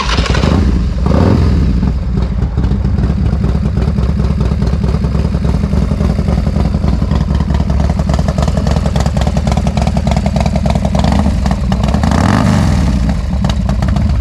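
Motorcycle engine running at idle, revved briefly twice: once about a second in and again near the end.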